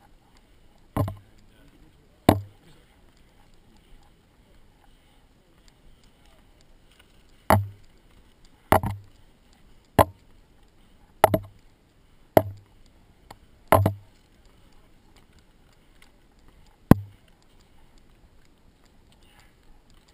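Sharp knocks or thumps, about nine of them at uneven gaps of a second or more, over a faint steady hiss.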